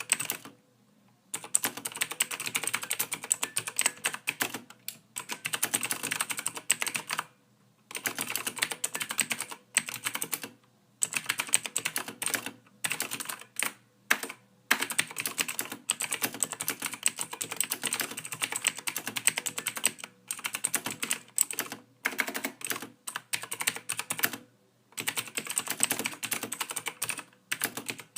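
Typing on a computer keyboard: rapid runs of key clicks in bursts of a few seconds, broken by brief pauses.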